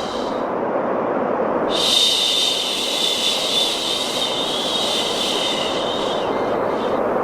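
A long, drawn-out 'shhh' shush starts about two seconds in, holds for about five seconds and fades near the end, over a steady white-noise hiss used to soothe a baby to sleep.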